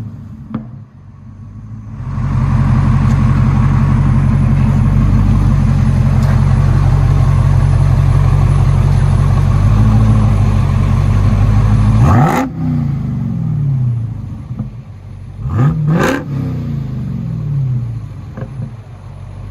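2017 Dodge Charger Hellcat's supercharged 6.2 L Hemi V8 through a dual exhaust with the rear resonators deleted. About two seconds in it rises to a loud, steady engine note that holds for roughly ten seconds. Then come short throttle blips: one sharp rev, two more in quick succession a few seconds later, and another near the end, each climbing and falling back to idle.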